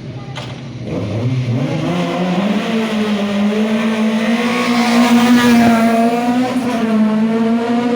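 A car engine revving up and then held at high revs, wavering slightly, as the car is driven off hard. The pitch climbs over the first few seconds and then stays high, loudest just past the middle.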